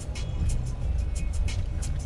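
Car cabin noise while driving: a steady low rumble from the engine and tyres, with scattered light ticks.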